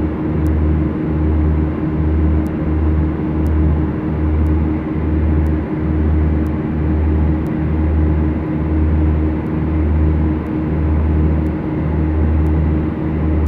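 Beechcraft Duchess's twin four-cylinder Lycoming piston engines and propellers running steadily, a continuous drone with a held tone and a low throb that swells and fades about once a second.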